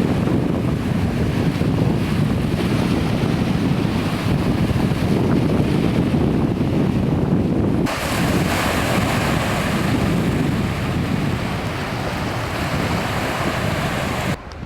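Strong wind buffeting the microphone: a loud, steady low rumbling rush with no distinct tones. It cuts off and starts again about eight seconds in.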